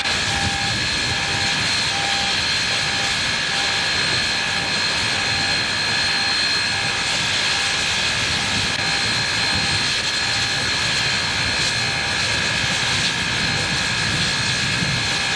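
Union Pacific 3985, a 4-6-6-4 Challenger steam locomotive, hissing steadily, with a faint regular pulse a bit under twice a second.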